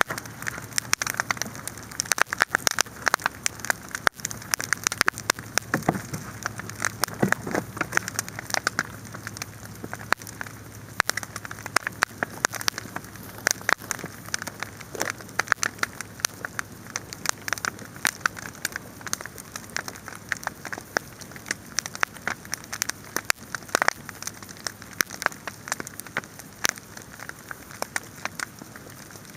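Wood fire burning, crackling and popping steadily with dense, irregular snaps over a soft hiss.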